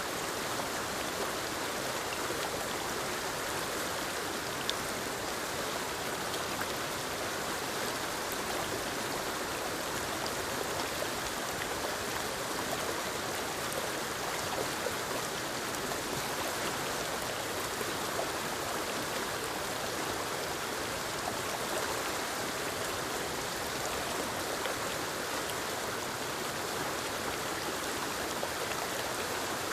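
Steady rushing of a forest waterfall and the stream below it, an even, unbroken hiss of falling water with faint splashes.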